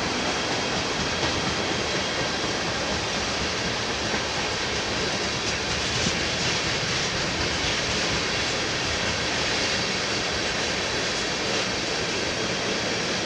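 Train rolling past on the main line, a steady noise of wheels running on the rails.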